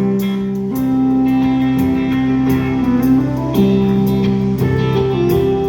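Live rock band playing an instrumental passage: guitar and long held notes that shift in pitch a few times, over a steady cymbal beat.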